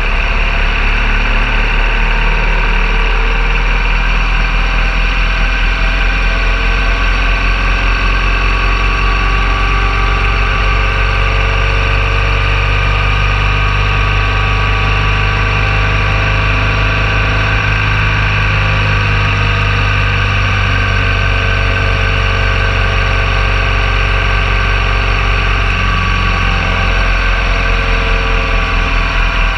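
BMW R1200 GS Adventure motorcycle's boxer-twin engine running steadily at riding speed, its pitch drifting only slightly, over a steady rush of wind noise.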